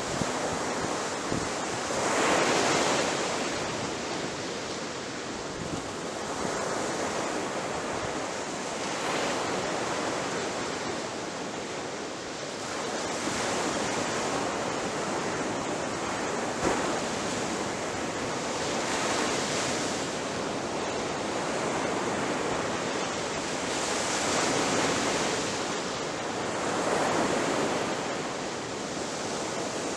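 Ocean surf breaking on a shore: a continuous hissing wash of water that surges louder every few seconds as each wave breaks and then washes back.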